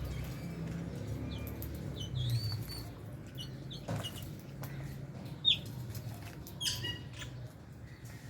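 A flock of lovebirds giving short, sharp, high-pitched chirps and squeaks. The loudest comes about five and a half seconds in, with others around two and seven seconds in, over a steady low rumble.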